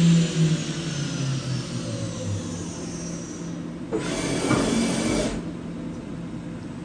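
Samsung MCV-50 vertical machining center's spindle winding down after reaching 12,000 rpm, its whine falling steadily in pitch over the first two seconds. About four seconds in comes a rush of hissing noise that lasts just over a second.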